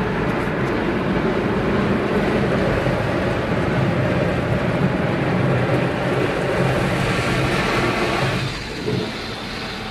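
Automatic car wash machinery heard from inside the car: a steady rush with a low motor hum as the car passes through the wash stations. It eases off about eight and a half seconds in, as the wash stage ends.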